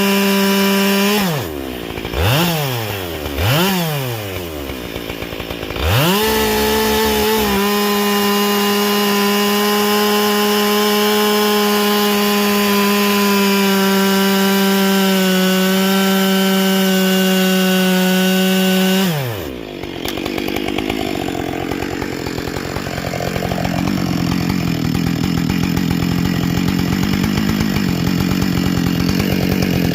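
Husqvarna 572XP two-stroke chainsaw with a carbide chain running at high revs. The engine drops off and revs back up twice, then holds a steady high pitch. About twenty seconds in the pitch falls and it turns rougher and noisier, typical of the chain cutting into wood.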